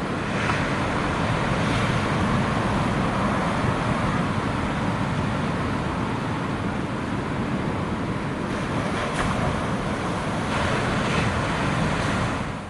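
Strong wind blowing and buffeting the microphone: a steady, dense rush that drops away abruptly near the end.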